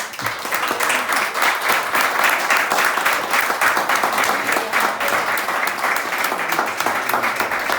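Audience applauding, a dense steady clapping of many hands that swells up right at the start.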